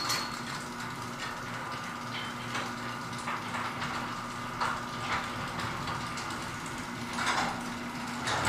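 Garage door opener motor running steadily as the door closes, with scattered clicks and rattles from the moving door. The hum stops near the end as the door finishes closing.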